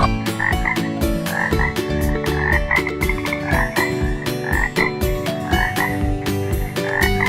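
Short animal calls repeated every half second or so over background music with a steady beat.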